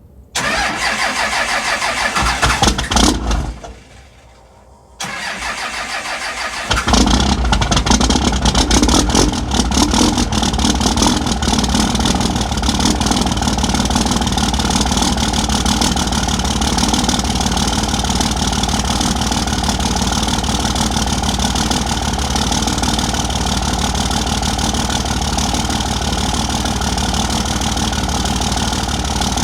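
Cummins diesel engine cold-started at 14 degrees without its intake grid heater: a first cranking burst of about three seconds, a short pause, more cranking, then the engine catches about seven seconds in and settles into a steady run.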